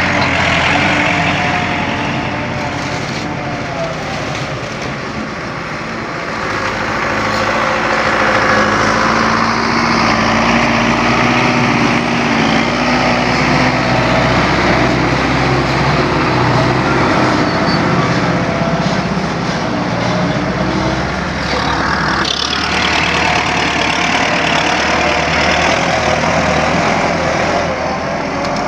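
Tractor engine running steadily under a heavy load, its pitch wavering slightly. A single sharp knock comes late on.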